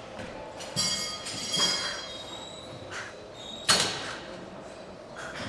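Metal gym equipment being handled: a metallic scrape with a high ringing about a second in, then a sharp clank about three and a half seconds in, the loudest sound.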